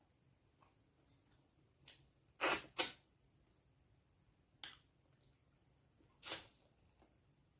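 Mouth sounds of someone eating: four short, wet smacks, two close together about two and a half seconds in, then one near the middle and one near the end.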